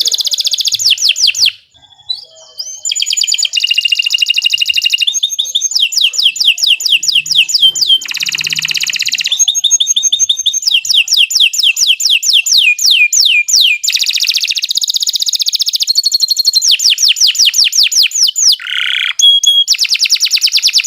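Domestic canary singing a long, nearly unbroken song of rapid trills, each a fast run of repeated falling whistled notes, with one brief break about two seconds in.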